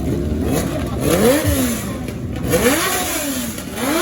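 Motorcycle engine revved twice, its pitch climbing and falling back each time.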